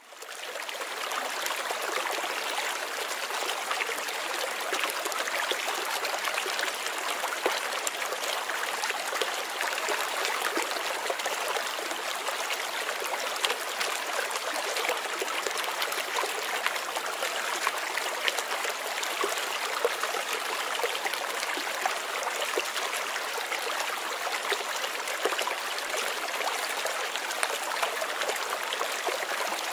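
Stream water running and trickling in a steady, busy babble, fading in over the first second.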